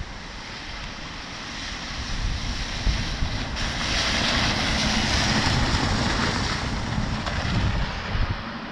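Storm wind buffeting the microphone, with a rushing wet hiss that builds for a couple of seconds, is strongest in the middle, then dies away near the end.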